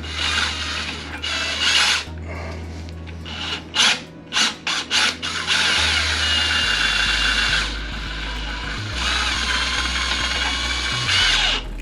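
Power drill running in several bursts with short pauses and a few clicks between, driving a nut onto a toilet tank bolt to squash its rubber washer down for a seal.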